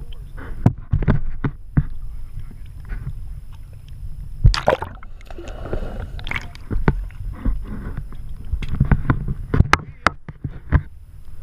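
Sounds aboard a charter fishing boat at sea: a steady low rumble with scattered sharp knocks and clatter, and a short rushing noise about four and a half seconds in.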